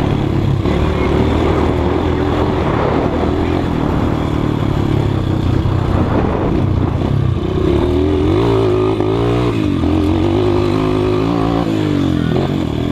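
Motorcycle engines running; from about the middle on, the revs rise and fall repeatedly as the throttle is worked.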